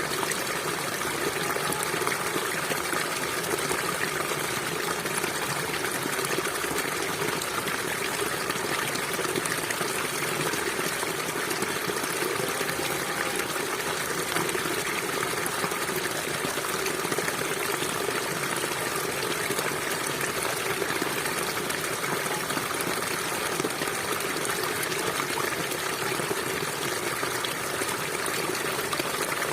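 Stream water flowing steadily over stones, a constant trickling and gushing.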